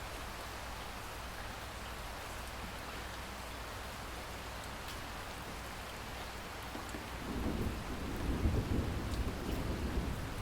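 Steady rainfall hissing, with a few faint drop ticks. About seven seconds in, a low rumble of thunder rolls in and keeps rumbling.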